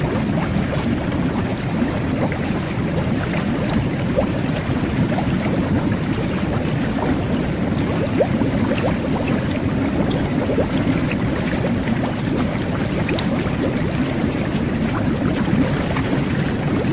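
Jet bath (whirlpool tub) jets running: a steady, low churning rush of water and air bubbles, with small bubble pops scattered through it.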